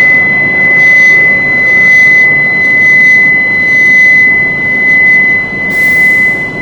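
Loud, even rushing of a Shinkansen train at a station platform, with a steady high-pitched electronic tone held over it throughout.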